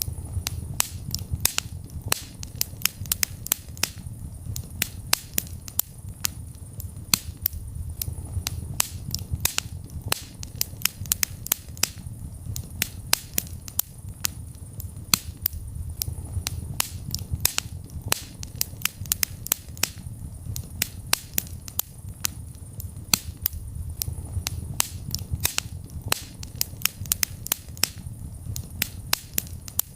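Wood fire burning in a fireplace, crackling and popping with many sharp snaps at irregular intervals over a low, steady rumble of the flames.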